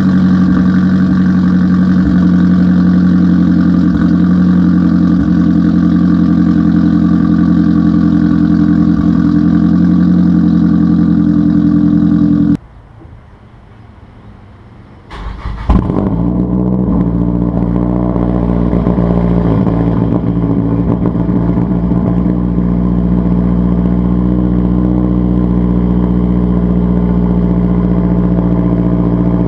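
Straight-piped Mazdaspeed3 turbocharged 2.3-litre four-cylinder idling steadily with no catalytic converter or muffler. About halfway through it stops, and after a short quiet pause an engine is cranked and fires with a sharp bark, then settles back into a steady idle.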